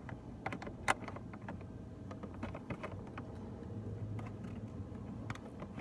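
Plastic interior trim cover being unclipped and handled, giving scattered sharp plastic clicks and snaps, the loudest about a second in.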